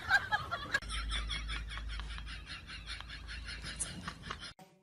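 A dog making a rapid pulsing sound, about seven short pulses a second, which cuts off abruptly near the end.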